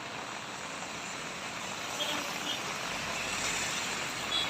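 Steady hiss of heavy monsoon rain and a vehicle moving on a wet road, swelling slightly in the second half. A few brief high squeaks come about two seconds in and again near the end.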